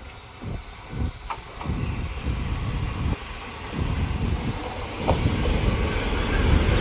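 A train running along the track, its low rumble with uneven thumps growing steadily louder as it approaches.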